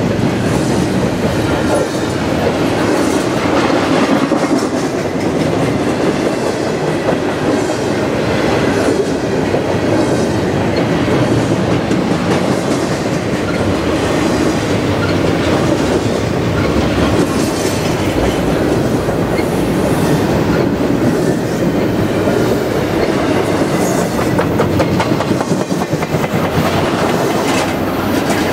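Freight train's double-stack container well cars rolling past close by: a steady loud rumble of steel wheels on rail, with irregular clacks as the wheels cross rail joints.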